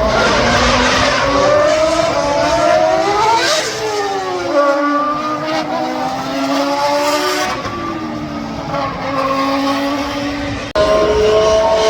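A racing car's engine accelerating hard up to a pass-by about three and a half seconds in, its pitch rising and then dropping away as it goes past. Near the end it cuts abruptly to another car's engine running at a steady pitch.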